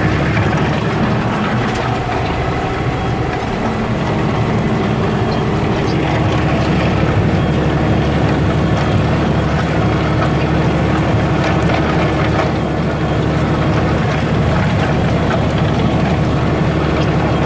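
Deutz-Fahr TTV 160 tractor's diesel engine running steadily under load as it pulls a mounted reversible plough through the soil.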